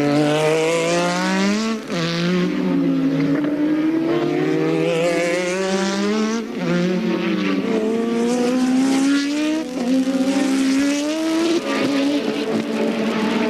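1983 Formula One race car engines at high revs, the pitch climbing and then dropping sharply at each gear change, about four times; at moments a second engine overlaps the first.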